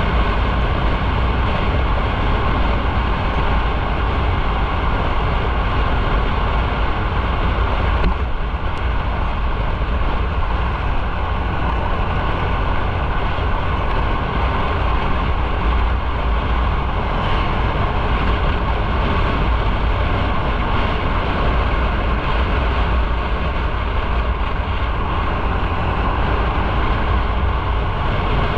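Steady noise of a motorcycle under way: engine, road and wind noise together, with a brief click about eight seconds in.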